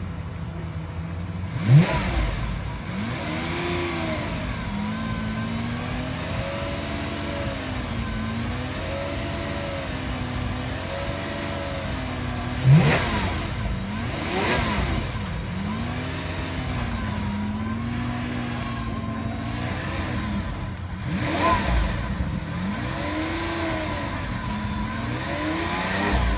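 Lamborghini Aventador's V12 revved repeatedly while standing still, the revs rising and falling every second or two. Sharp, loud blips come about two seconds in and again about thirteen seconds in.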